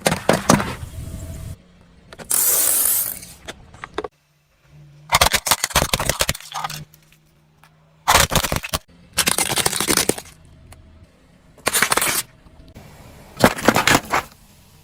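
Crunching and cracking as objects are crushed under a car's tyres, in about half a dozen short separate bursts with abrupt cuts between them.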